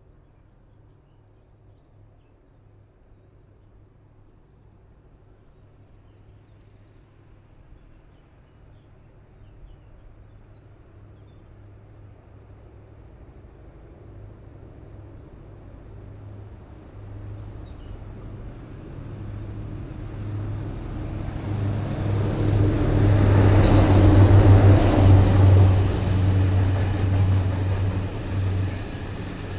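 Diesel locomotive approaching and passing, its engine drone growing steadily louder and peaking about three-quarters of the way in. It is followed by the rumble of a long train of hopper wagons rolling by on the rails.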